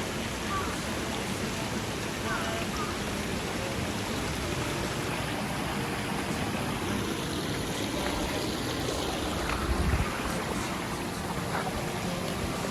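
Steady rush of running water, like a garden stream or small waterfall, with a brief low rumble about ten seconds in.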